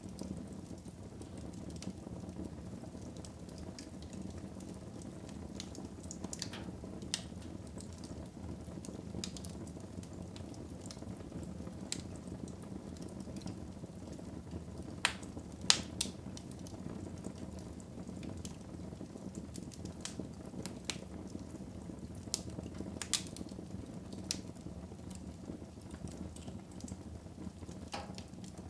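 Fire burning in a fireplace: a steady low rumble with scattered crackles and pops, the two sharpest close together about halfway through.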